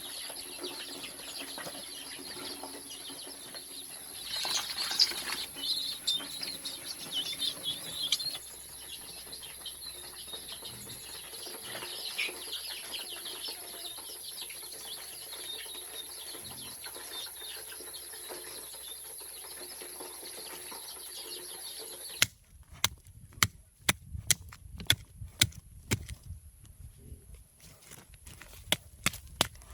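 Birds chirping over a steady high whine in open-air ambience. About two-thirds of the way through it cuts abruptly to a run of sharp clicks and knocks.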